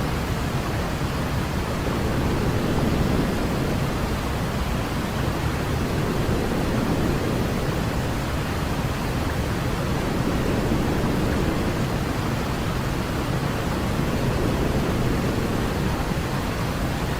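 Continuous white noise for baby sleep: a steady, even hiss, heavier and deeper at the low end than pure white noise, like pink noise.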